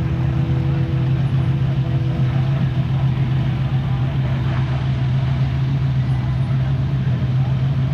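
A car engine running steadily with an even low drone.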